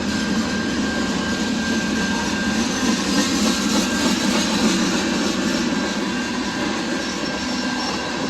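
Train passing close by: steady rolling noise of wheels on rails, with a faint, thin high squeal.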